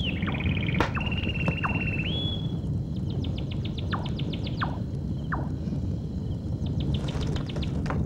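Birds calling over a steady low background hum: short falling whistles, a few held trilled notes in the first two seconds, then rapid ticking trills and scattered chirps.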